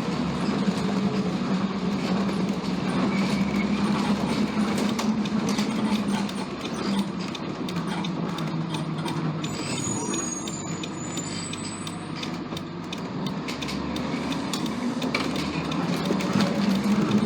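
School bus diesel engine, an International T444E turbo V8, running steadily; its drone drops a little in pitch and loudness in the middle and rises again near the end.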